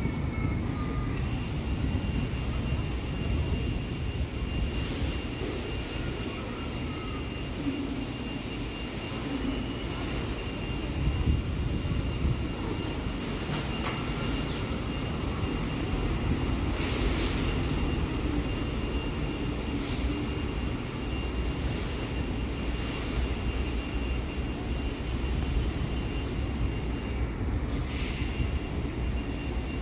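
Older SMEE subway car running along the track, with a steady low rumble, a thin high whine that starts about a second in and stops near the end, and occasional clicks and knocks.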